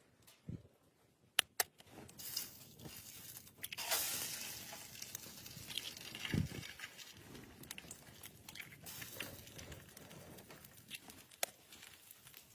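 Irregular rustling and crunching handling noises, with a few sharp clicks and a couple of dull thumps.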